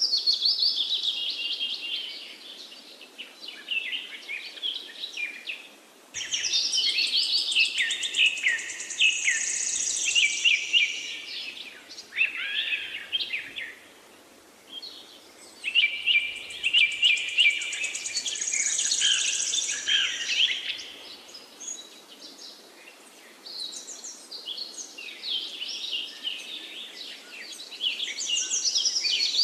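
Forest songbirds singing in bouts of rapid, trilling chirps, several voices overlapping, over a soft steady hiss of background ambience. The loudest bursts come near the start, about six to eleven seconds in, about sixteen to twenty-one seconds in, and near the end, with quieter gaps between them.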